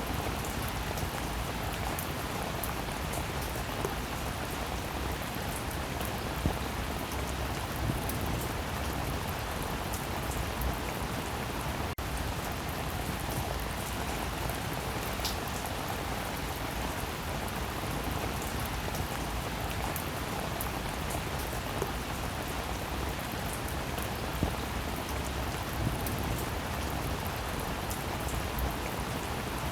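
Steady rain falling: a dense, even hiss with scattered sharper drop taps now and then.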